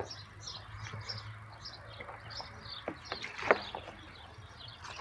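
Birds chirping in many short calls over a faint, steady low hum, with one sharp click about three and a half seconds in.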